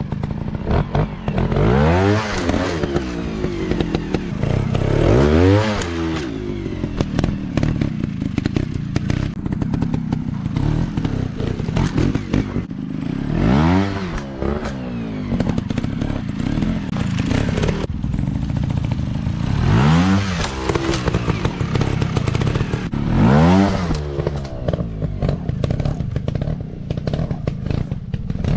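Dirt bike engines running, revved up and back down in short blips about five times, with clattering knocks throughout.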